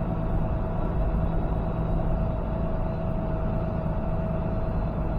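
Steady engine and road noise inside a semi-truck's cab while driving on the highway, with a thin constant whine above the low rumble.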